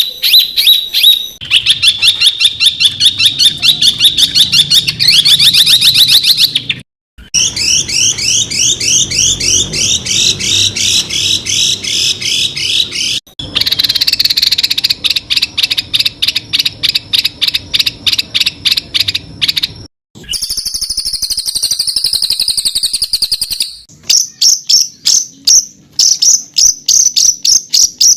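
Songbird masteran recording: rapid runs of sharp, repeated notes and fast trills, the 'tembakan' shots used to tutor competition songbirds. Several different birds' phrases are spliced together, each changing abruptly every few seconds.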